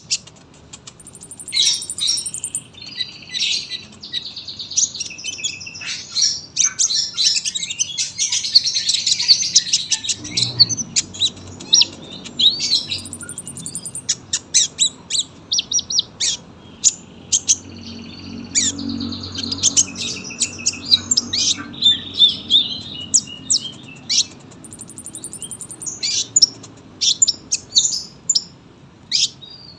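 Sunbird (kolibri) singing a long, continuous song of rapid high chirps and twittering trills, with a short buzzy high trill near the start, about halfway through and again near the end.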